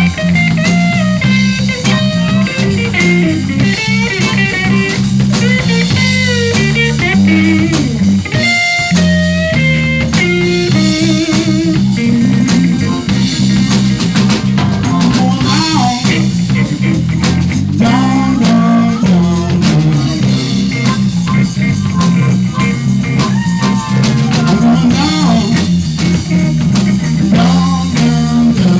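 A live blues band playing: guitar with bending lead lines over a walking bass line and a drum kit.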